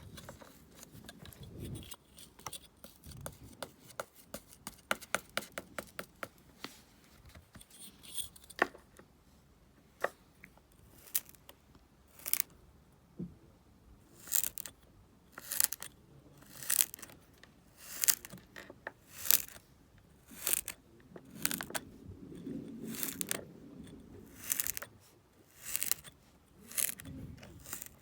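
Kinetic sand being worked with a tool, crisp scraping and slicing strokes. It starts as a rapid run of fine crackling clicks, then settles into regular strokes about one to two a second.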